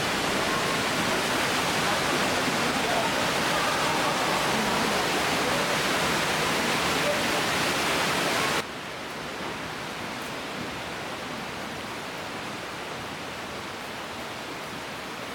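Steady rushing water, loud and even, that cuts suddenly to a quieter steady rush about eight and a half seconds in.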